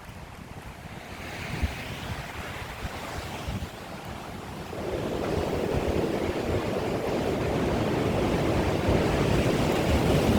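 Strong wind buffeting the microphone with a steady rushing noise. A gust builds about halfway through and stays loud.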